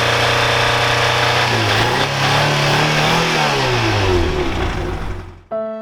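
2007 Lada Priora's 16-valve four-cylinder engine running, revved up and back down, its sound stopping shortly before the end. The owner puts the engine's trouble down to a failed head gasket on the first cylinder.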